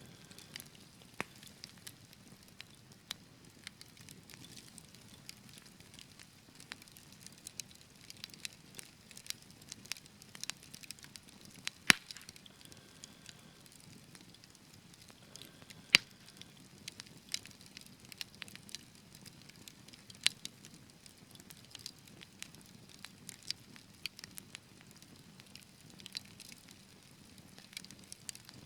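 Wood fire crackling in a fireplace: a steady low hiss with scattered sharp pops and snaps, two louder pops about 12 and 16 seconds in.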